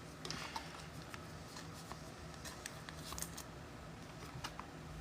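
Faint handling noise of trading cards and pack wrappers: light rustling and scattered soft clicks over a low steady hum.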